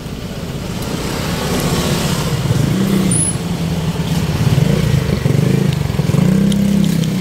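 Street traffic with a motor vehicle engine running close by, its low drone wavering in pitch and getting louder over the first few seconds.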